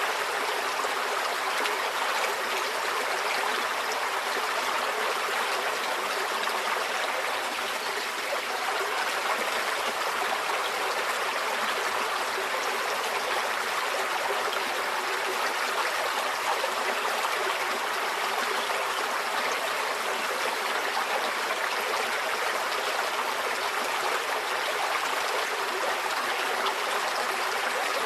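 Forest stream flowing steadily over rocks, an even rushing and trickling of water.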